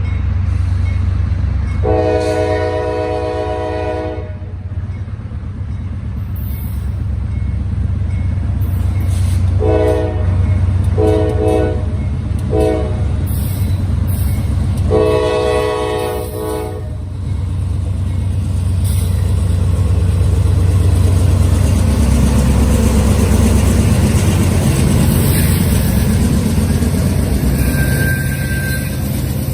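Norfolk Southern freight train's diesel locomotive sounding its multi-chime air horn for a grade crossing: a long blast, three shorter blasts, then another long blast. Under the horn is the steady low rumble of the diesel engines, and the roar of wheels on rail builds as the train passes.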